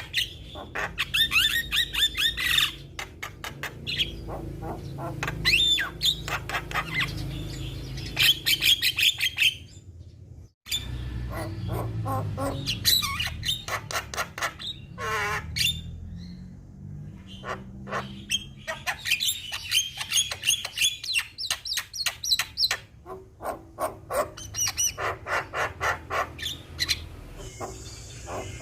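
Javan myna singing vigorously: rapid runs of sharp, chattering notes mixed with pitched whistles, with a brief break about ten seconds in.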